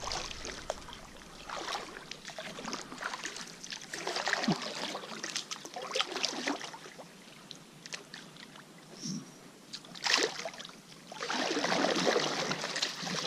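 Canoe paddles stroking through the water, with splashes and drips, as the canoe is backed up. There is a longer, louder stretch of paddling near the end.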